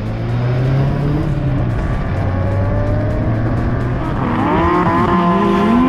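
Turbocharged 1JZ-GTE straight-six of a Toyota Chaser Tourer V, fitted with a replacement turbo, pulling under acceleration: the revs climb, hold, then drop and climb again about four seconds in, as at a gear change.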